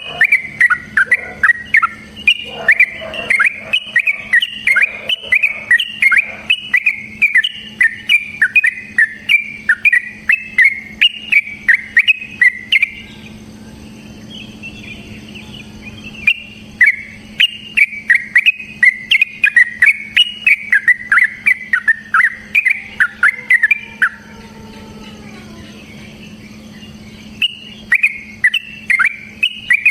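Yellow-vented bulbul (trucukan) singing fast runs of loud, chattering notes, three to four a second, in three bouts broken by short pauses, the longest over the first dozen seconds. A steady low hum runs underneath.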